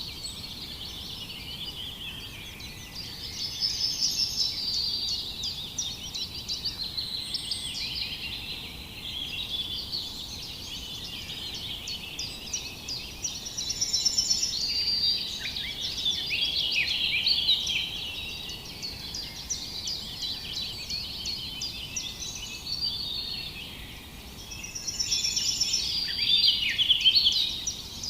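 Many small birds chirping and trilling together in a dense, overlapping chorus, growing louder in three bouts.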